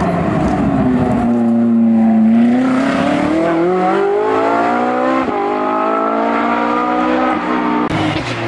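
Hillclimb race car engine: the pitch drops as the car slows, then climbs steadily for several seconds as it accelerates hard uphill.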